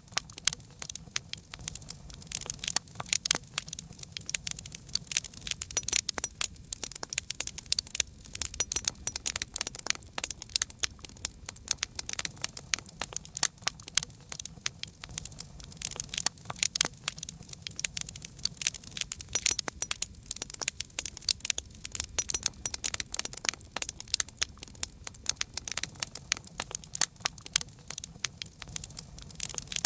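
Wood campfire crackling: a dense, irregular run of sharp pops and snaps, many a second, over a low steady rumble.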